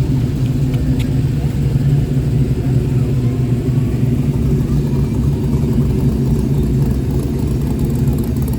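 A vehicle engine running steadily, a continuous low rumble with no revving.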